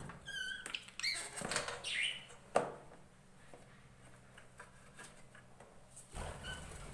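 A few short, wavering bird chirps, mixed with scattered clicks and knocks; the loudest knock comes about two and a half seconds in.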